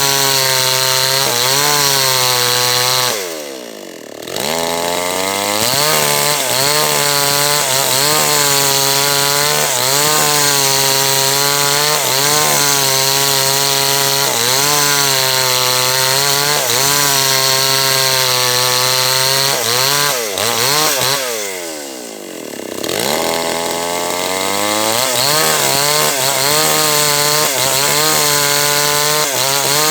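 H&L Pro 5800 two-stroke chainsaw cutting through a large teak log, its engine note wavering under load. Twice, a few seconds in and again about two-thirds of the way through, the revs drop off briefly and then climb back up.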